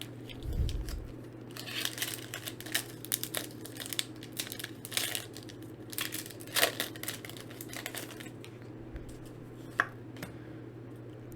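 Foil Pokémon booster pack wrapper crinkling and tearing as it is opened, a dense run of crackles lasting several seconds, with a steady low hum underneath.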